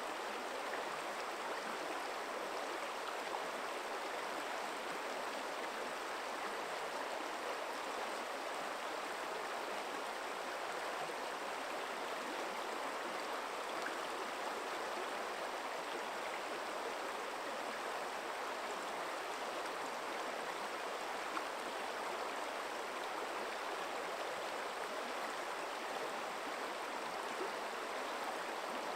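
Forest stream running steadily, an even rush of flowing water with no change in level.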